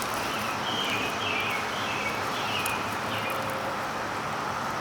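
A steady drone of a periodical cicada chorus, with a songbird singing short warbled phrases over it, one after another.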